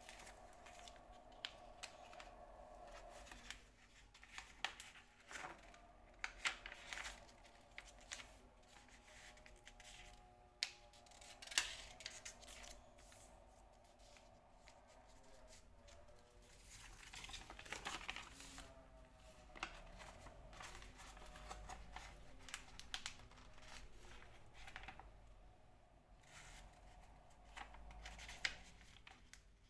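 A sheet of paper being handled: repeated crisp rustles and sharp crinkles at irregular intervals, over faint background music.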